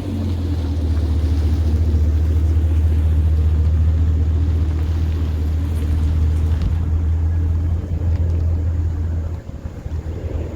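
Chevrolet Camaro ZL1's supercharged V8 through a straight-piped, muffler-delete exhaust, a steady deep drone while driving that drops in level near the end.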